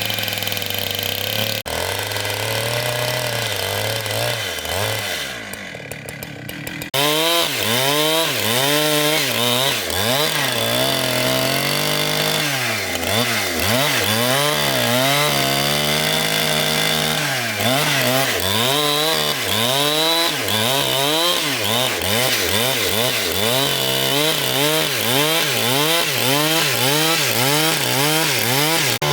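Chainsaw cutting timber, its engine pitch dipping and recovering over and over as the chain bites into the wood. The sound changes abruptly and gets louder about seven seconds in.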